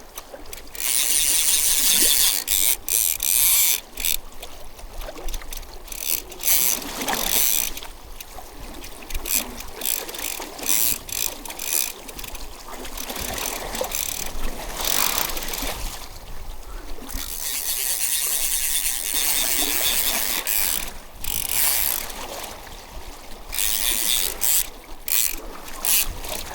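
Fly reel's ratcheting drag buzzing in long fast runs as a hooked steelhead pulls line off, longest about a second in and again past the middle, with shorter bursts between.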